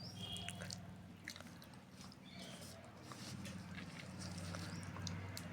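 A person eating: chewing with small wet mouth clicks scattered throughout, over a low steady hum.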